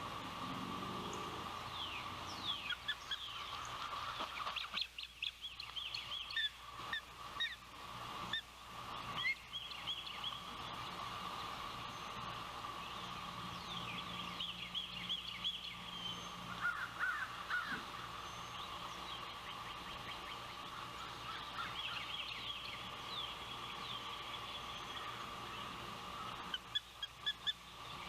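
Ospreys calling in several bouts of short, high whistled chirps, the notes often falling in pitch, over a steady high hum.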